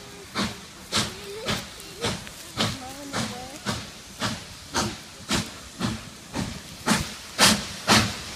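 Steam locomotive 2472, a 4-6-2 Pacific, working steam as it approaches: an even beat of exhaust chuffs about two a second, growing louder toward the end.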